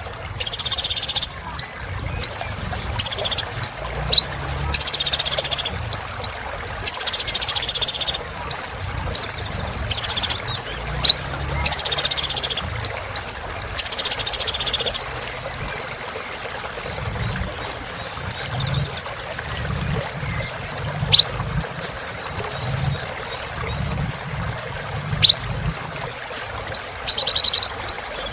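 A kolibri ninja sunbird singing: rapid, high, sharp chips, broken up by buzzy trills about a second long, repeated over and over.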